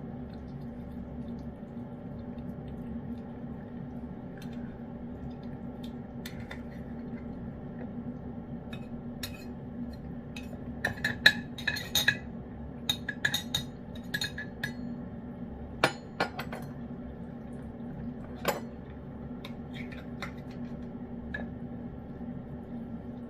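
Clinks of a food dish as cats eat wet food from it: a run of small clinks from about ten to sixteen seconds in and one more near eighteen seconds, over a steady low hum.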